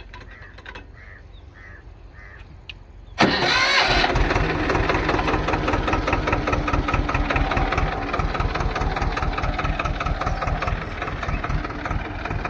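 Swaraj 724 XM Orchard tractor's two-cylinder diesel engine starting about three seconds in with a sudden loud catch, then running steadily with a rapid, even beat.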